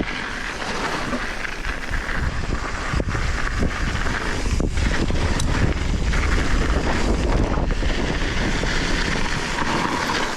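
Wind buffeting an action camera's microphone during a fast downhill mountain bike descent on a dirt trail, with steady tyre noise and frequent knocks and rattles as the bike runs over bumps.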